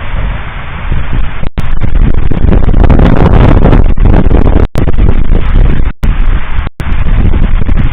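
Fireworks salute: a dense, continuous barrage of bursts and booms, loud enough to overload the recording into a distorted rumble, with several brief dropouts. It grows louder about a second and a half in.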